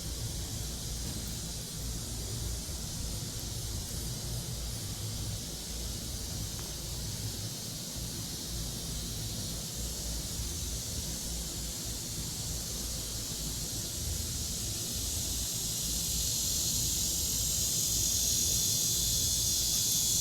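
Cicada chorus: a steady, high-pitched hissing buzz that swells louder over the last few seconds, over a low rumble.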